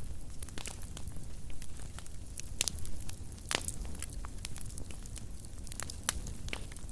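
Wood fire burning in a fireplace: a steady low rumble of flames with irregular sharp crackles and pops, the loudest pops about two and a half and three and a half seconds in.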